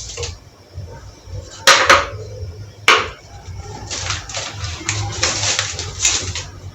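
Plastic food containers being handled: sharp clicks about two and three seconds in, then a few seconds of rustling and light knocking.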